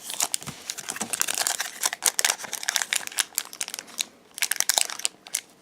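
Trading cards being handled and flipped through by hand: a dense run of quick clicks and crinkly rustles of card stock and pack wrapper, with a short lull about four seconds in.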